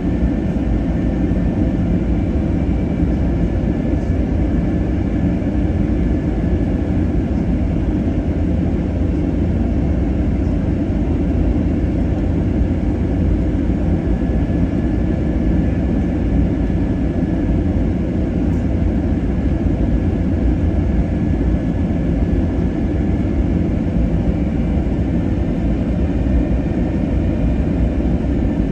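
Steady low drone of an Airbus A321neo airliner's engines and rushing air, with faint steady whine tones above it.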